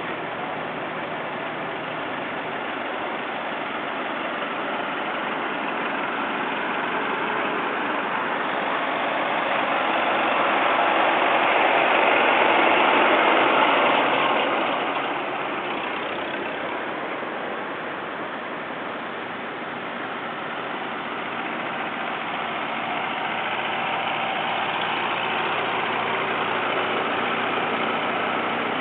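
Vintage farm tractor engines running as tractors drive past on the road, the sound swelling to its loudest about halfway through as one passes close, easing off, then building again near the end as another approaches.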